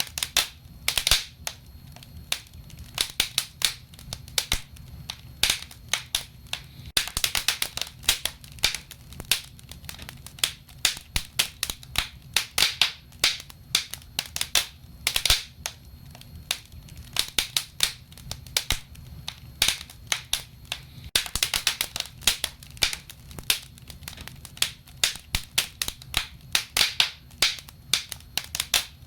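Wood fire in a fireplace crackling and popping: frequent sharp pops, often in quick clusters, over a steady low rumble.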